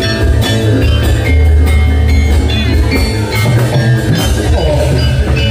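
Javanese gamelan music for a Jathilan dance, played loud: drums beating over struck metallophones ringing short bell-like notes.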